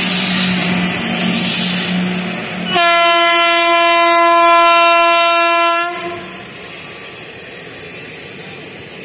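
Passing express train hauled by a WAG5 electric locomotive: running noise of the locomotive and coaches with a steady low hum, then a train horn sounds one long steady blast of about three seconds. After the horn the coaches' running noise carries on, quieter.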